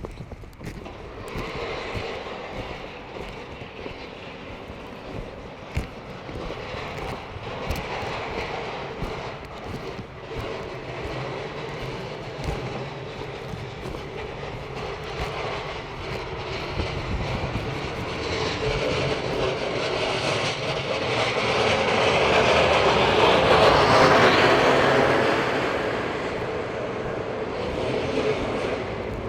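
Street traffic: a motor vehicle's steady rushing noise swells as it passes, loudest about three-quarters of the way through, then fades.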